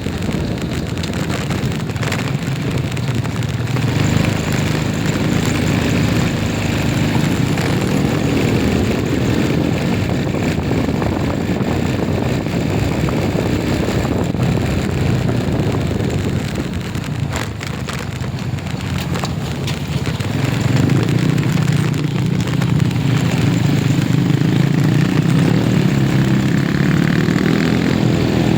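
A motor vehicle's engine running on the move, with road noise. It eases off briefly about two-thirds through, then picks up again.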